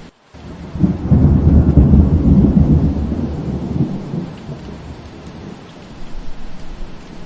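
Steady rainfall with a deep rumble of thunder that swells about a second in and dies away over the next few seconds. A very short dropout in the sound comes right at the start.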